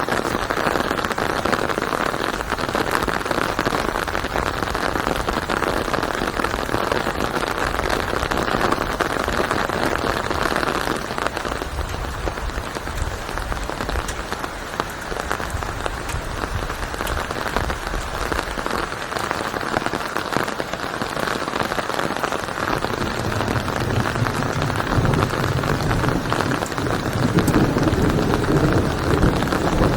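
Steady rain falling, a dense hiss of drops on a surface. A low rumble builds underneath in the last several seconds.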